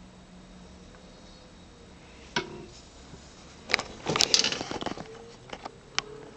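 A sharp click, then about a second of clattering knocks and rattles, then a couple more single clicks: handling noise of things being moved.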